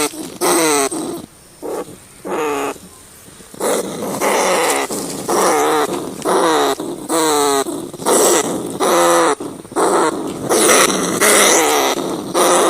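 Rats squealing: a run of short, pitched cries, one after another, each bending in pitch. The cries thin out briefly about a second in, then come thick and fast again from about three and a half seconds.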